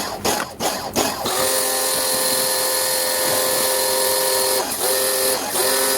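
A small electric motor starts about a second in and runs steadily with a hiss and a hum, cutting out briefly twice near the end. Before it, a few quick rhythmic strokes.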